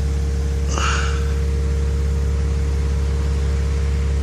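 2008 Ram 2500's Cummins straight-six turbo diesel idling steadily, with a short hiss about a second in.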